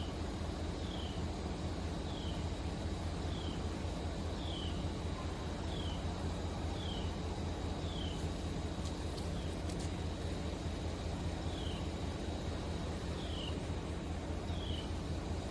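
A vehicle engine idling with a steady low hum. A bird calls over it in short, descending chirps repeated about once a second, with a few pauses.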